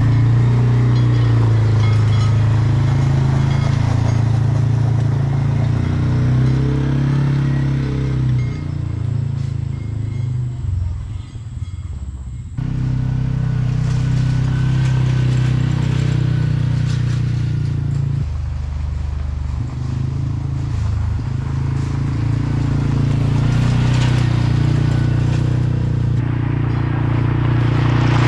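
A vehicle engine running steadily at low speed, with a sharp break and restart of the sound about twelve and a half seconds in.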